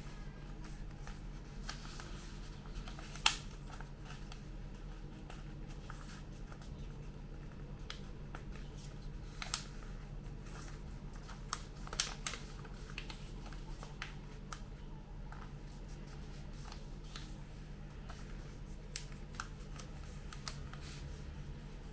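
A sheet of A4 paper being folded and creased by hand: scattered soft crackles and taps, the sharpest about three seconds in, over a steady low hum.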